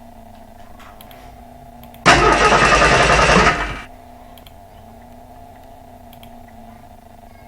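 A PowerPoint transition sound effect: one loud rushing noise burst about two seconds in, lasting under two seconds, over a faint steady electrical hum.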